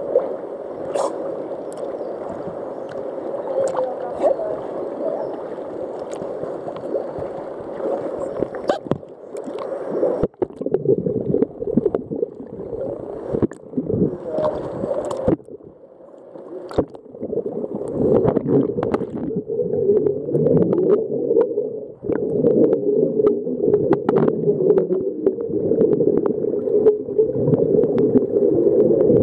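Muffled sloshing and gurgling of water with many scattered clicks and knocks, busier and louder in the second half.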